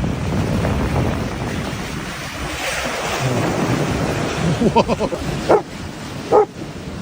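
A steady rushing, rumbling noise, then from about two-thirds of the way in a series of short barking calls, roughly one a second.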